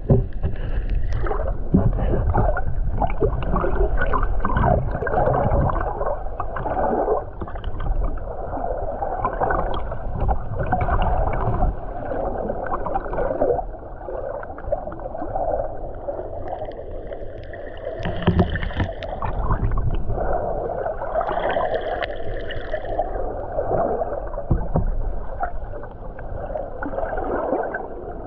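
Underwater water movement recorded through a camera housing: a muffled, uneven churning and gurgling of surge swirling over the reef, with no clear high sounds.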